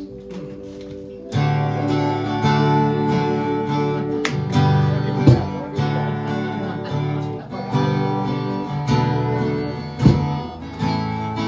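Live worship band playing the instrumental intro to a song: strummed acoustic guitar over bass, kicking in fully about a second in after a soft held chord, with a few sharp hits.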